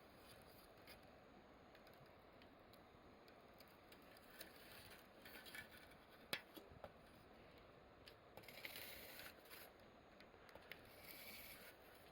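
Quiet wood fire crackling, with sparse small pops, one sharper snap about six seconds in, and a couple of short stretches of hiss.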